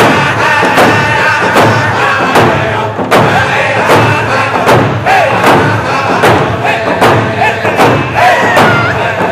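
Round dance song: voices singing together over a steady beat of hand drums, the loud strikes coming a little under a second apart.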